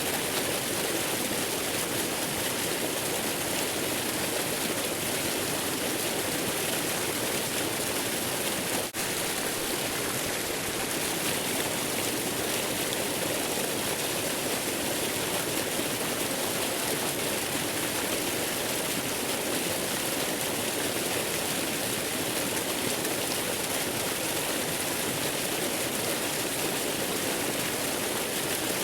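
Steady rushing of a waterfall, an even hiss-like wash of water noise, with a brief dip in level about nine seconds in.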